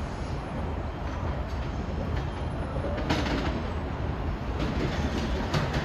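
A train running through the station: a steady low rumble that grows slightly louder, with sharp clicks of the wheels on the rails from about three seconds in.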